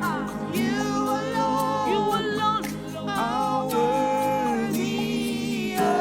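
Church worship singing: a worship leader's voice holding long, sliding sung notes over a soft sustained accompaniment.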